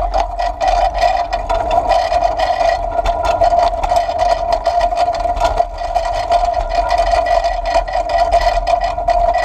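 Child's bicycle rolling fast downhill on a sidewalk: a steady whirring hum from the wheels, with frequent rattles and clicks as it runs over the pavement, and wind rumble on the microphone.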